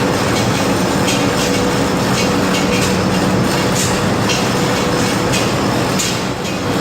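Cyclonic rice husk furnace and paddy dryer plant running: a loud, steady machine din with a constant hum and irregular short rattles throughout.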